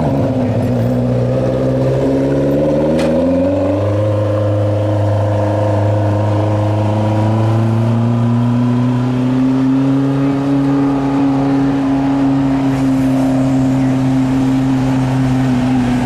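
A modified pulling lawn tractor's engine revving up over the first few seconds, then held at high, nearly steady revs.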